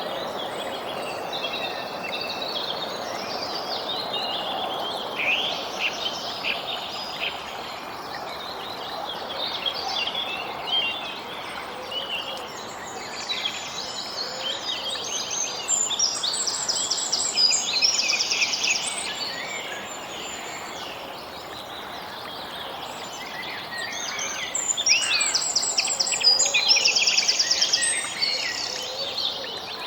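Several songbirds chirping, whistling and trilling, with two louder bursts of rapid trills about halfway through and near the end, over a steady background hiss.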